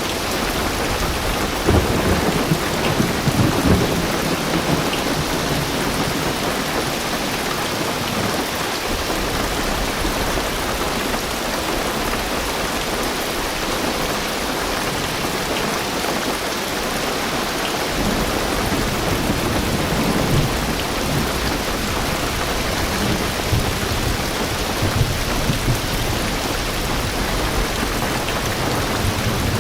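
Heavy rain drumming steadily on a car's roof and windows, heard from inside the car. Thunder rumbles low about two seconds in and rolls on again through the second half.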